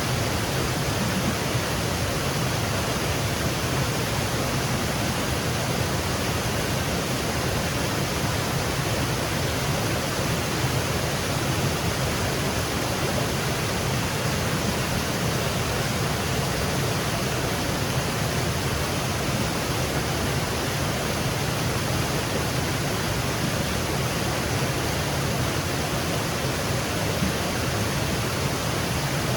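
Small woodland waterfall cascading over rocks: a steady, even rush of falling water.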